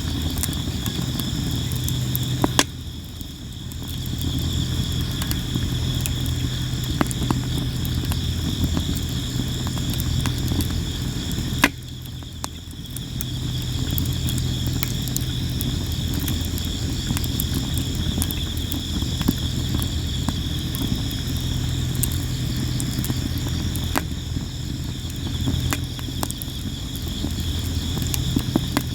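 Sawara (Japanese cypress) wood fire crackling steadily with frequent sharp pops, two of them louder, about 3 s and 12 s in. Crickets chirr steadily behind it, over a steady low hum.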